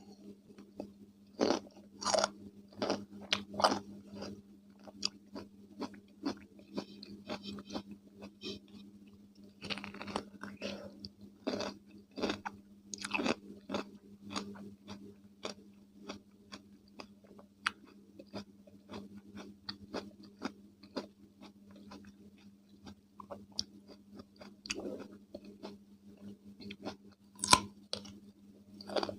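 Close-miked chewing of crunchy raw cucumber: crisp bites and crunches that come again and again, loudest near the start, around ten to fourteen seconds in, and near the end. A faint steady hum runs underneath.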